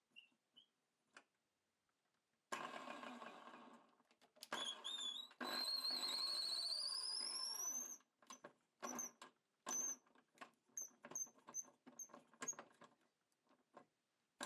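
Power drill driving a small wood lathe: the motor whines and climbs in pitch as it spins up, then runs in a string of short trigger bursts.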